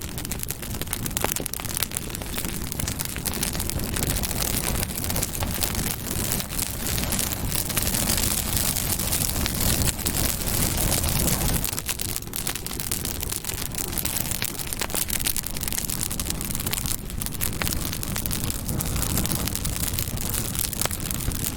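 Campfire burning: a steady rushing rumble of flames with frequent small crackles and pops of burning wood.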